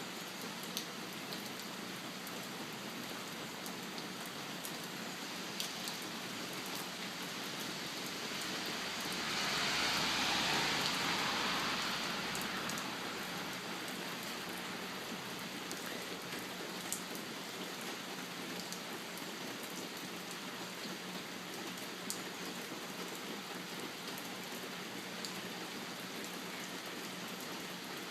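Steady rain, with scattered drops ticking close by. A louder hiss swells and fades about ten seconds in.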